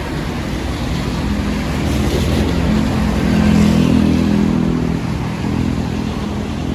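A motor vehicle passes by: its engine note swells to a peak about three and a half seconds in and then fades, over a steady background hiss.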